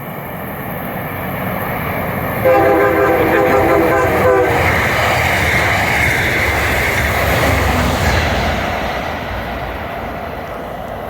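MBTA train approaching and passing through the station. It sounds a steady horn chord for about two seconds, a couple of seconds in, and then its rumble and rail noise swell to a peak and fade as it goes by.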